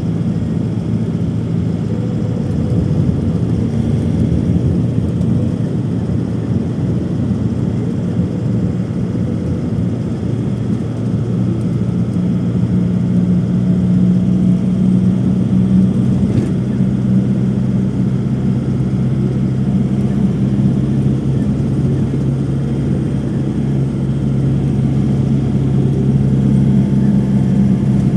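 Steady engine and airflow drone of an airliner in flight, heard inside the cabin as a continuous low hum, growing a little louder about halfway through.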